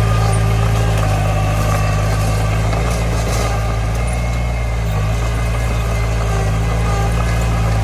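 Heavy-machinery diesel engine running steadily, with a deep, even drone.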